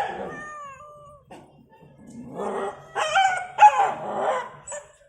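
A dog whining in high-pitched, wavering cries: a loud one at the start that falls in pitch, then several more from about two and a half seconds in.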